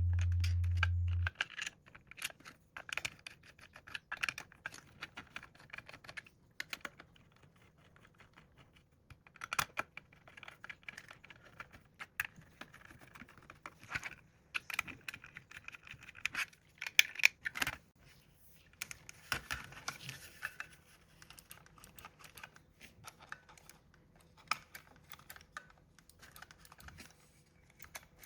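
Small clicks, taps and light scraping of metal and plastic parts being handled and fitted together by hand, irregular and quiet. A loud low hum stops about a second in.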